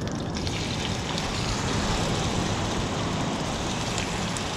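Pieces of tuna frying in hot oil in a small pot on a portable gas camp stove: a steady, crackling sizzle.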